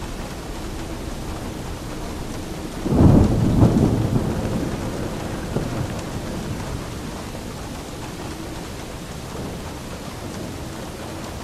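Steady rain with a thunderclap about three seconds in that rumbles away over the next few seconds.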